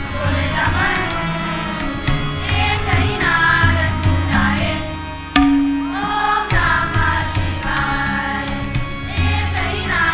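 Indian devotional song: voices singing over a held low drone with percussion, and one sharp stroke a little over five seconds in.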